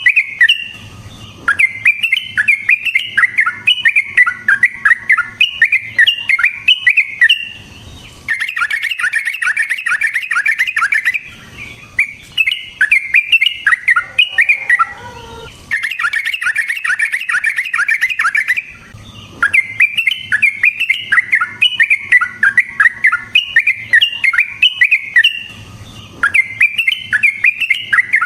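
Yellow-vented bulbul (trucukan) singing a long, rapid, rolling chatter of bubbly notes, in bouts of several seconds broken by short pauses. A few lower notes fall in pitch about halfway through.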